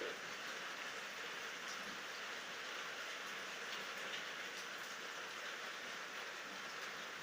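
Steady rain falling at night without thunder: an even hiss with a few faint drop ticks.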